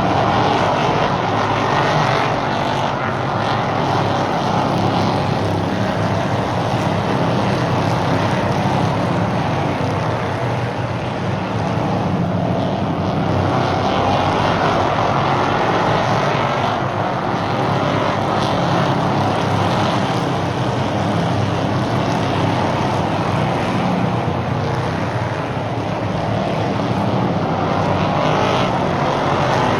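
Engines of a field of stock race cars running at speed around a short oval track. The sound is continuous and swells and fades in waves as the cars come by.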